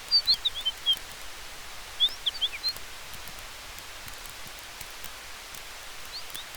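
Campfire crackling faintly under a steady hiss of wind through trees, with two quick runs of high bird chirps, one at the start and one about two seconds in.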